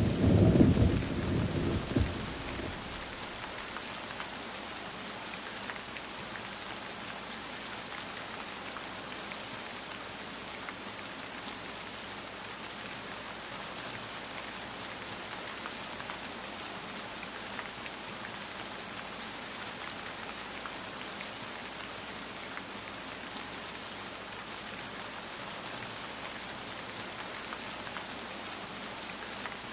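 Steady rain falling, an even hiss with scattered drops ticking through it. A low thunder rumble dies away in the first two or three seconds.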